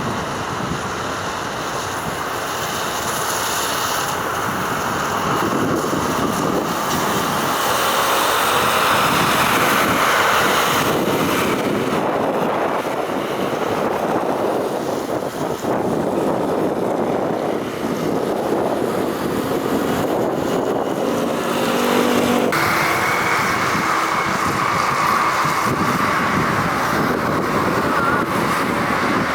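Jet engine noise from a Boeing 737-200's JT8D engines as it lands, building over the first ten seconds, with wind buffeting the microphone. About three quarters of the way in the sound changes abruptly to another jet airliner's quieter engine noise.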